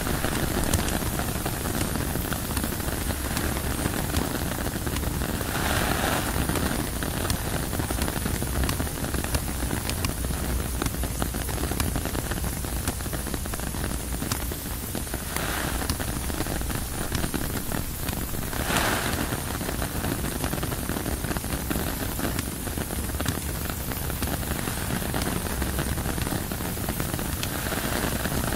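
Steady rain on a tent's fabric: a constant hiss dotted with many small drop ticks, swelling briefly three times.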